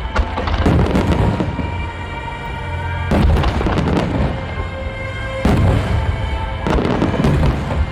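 Large aerial fireworks shells bursting with deep booms, about four big bursts each trailing off in crackle and rumble, over music with long held notes.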